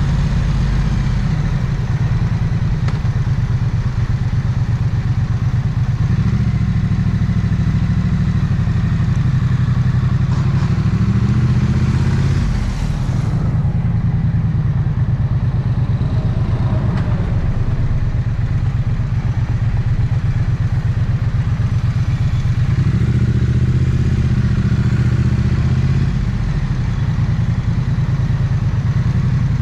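Triumph Speed Twin's 900cc parallel-twin engine and exhaust running at low revs in traffic, its note rising several times as the bike pulls away and briefly falling off about twelve seconds in as the throttle closes.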